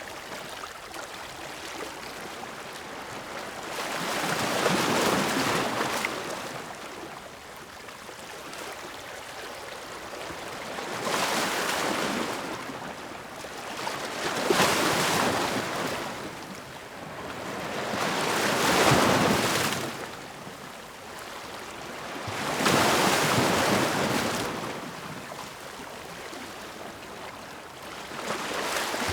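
Ocean waves breaking on a shore, about six times and every few seconds. Each wave swells into a loud rush of surf and fades back to a steady wash between breakers.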